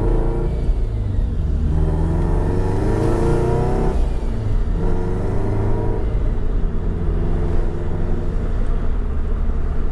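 Car's flat-four engine with a modified exhaust accelerating, heard from inside the cabin: the engine note rises three times with short breaks between, as through upshifts, then runs at a steadier pitch.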